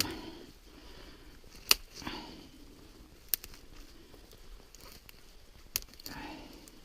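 Dry dead spruce twigs being snapped off by hand, three sharp snaps with faint rustling of branches between them.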